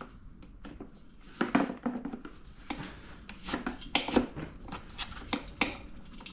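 Irregular metallic clinks, taps and scrapes of hand tools and parts while a pancake air compressor is being taken apart to loosen a nut. The loudest knocks come about a second and a half in and again around four seconds.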